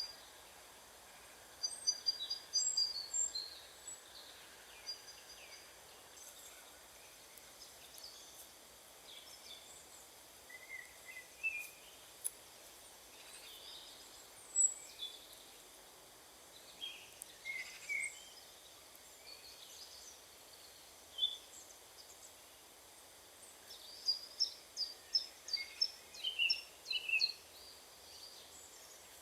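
Small birds calling and singing in short chirps and whistles, with busier runs of calls near the start and again near the end, over a faint steady background hiss.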